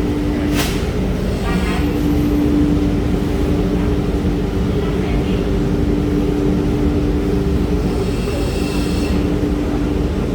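Washing machine running: a steady mechanical hum with a constant low tone.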